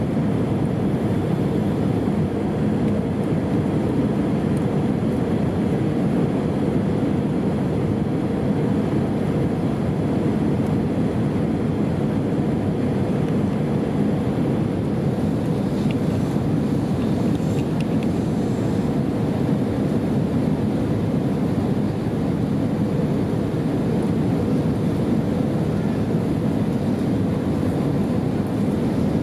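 Steady cabin noise of an Airbus A320 airliner in flight: an even engine-and-airflow rumble, with a faint steady hum that fades out several seconds in.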